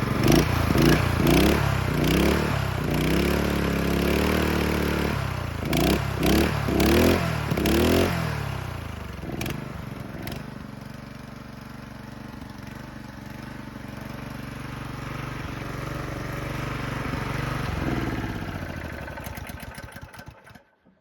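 Honda GX160 single-cylinder four-stroke engine running, blipped up in repeated short revs over the first eight seconds, then settling to a lower, steadier note. It swells again briefly and fades out just before the end.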